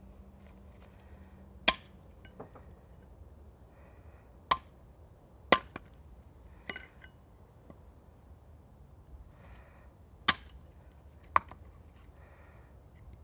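Six sharp cracks of wood at uneven intervals, one to four seconds apart, over a faint steady hiss.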